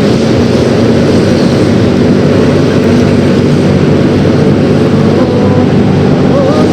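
Yamaha X-Ride 113cc scooter engine running while riding, under steady, loud wind and road noise.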